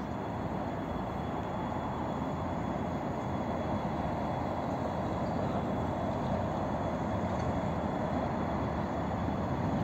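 Passenger train approaching on the line, a steady rumble that slowly grows louder.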